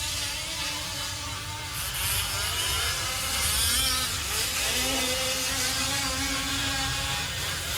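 Several fifth-scale RC off-road trucks' small two-stroke gas engines buzzing together, their pitch rising and falling as they rev and back off.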